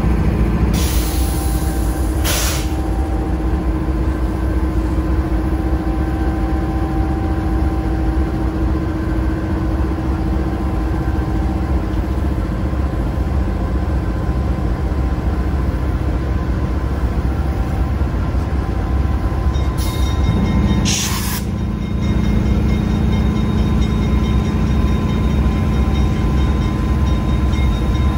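Freight train rolling past with a steady, continuous rumble of wheels on the rails and a few steady engine tones.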